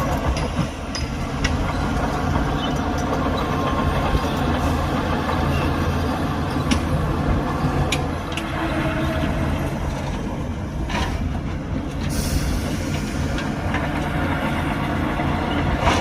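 Shantui crawler bulldozer working, its diesel engine running steadily under scattered metallic clanks and rattles from the tracks.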